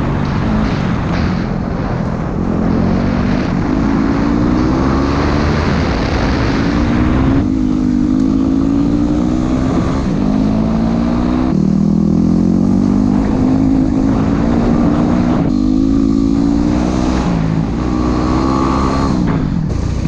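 Yamaha WR dual-sport motorcycle's single-cylinder engine under way, pulling up through the gears: its pitch climbs, then drops back at each shift about every four seconds. Near the end the revs fall away as it slows.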